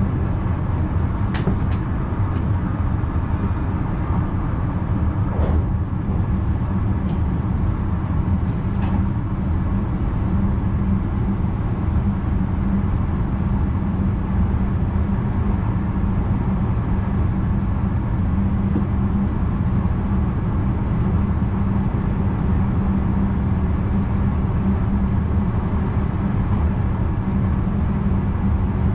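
VIRM double-deck electric train running, heard from inside the driver's cab: a steady low rumble with an even hum. A few light clicks come in the first nine seconds.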